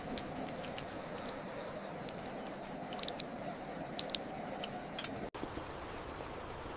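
Close-up eating sounds: wet chewing with many short, sharp mouth clicks over a steady background hum. The sound drops out for an instant about five seconds in.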